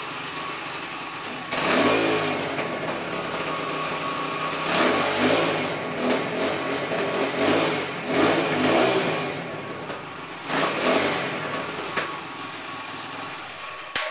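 A 200cc dirt bike engine running, blipped up and back down about five times, then cutting off abruptly at the very end.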